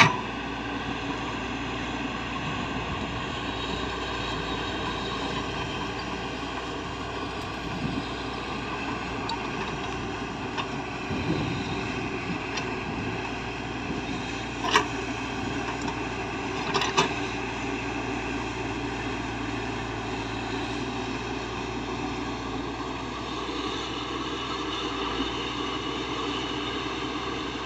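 Diesel engine of heavy earthmoving machinery running steadily, with a couple of short knocks about 15 and 17 seconds in.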